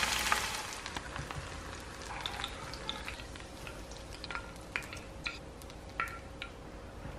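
Oil sizzling around bird's eye chillies, shallots and garlic frying in a pan, fading out within the first second; then scattered small sharp clicks and taps as the hot fried chillies are scraped off a slotted spatula into a stone mortar, over a faint steady hum.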